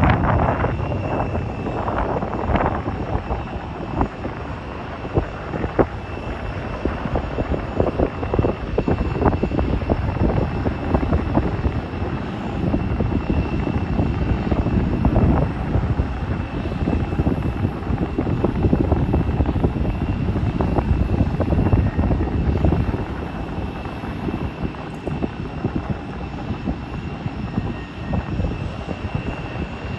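Airliner jet engines running, a steady high whine over a deep rumble, with wind buffeting the microphone; it grows quieter near the end.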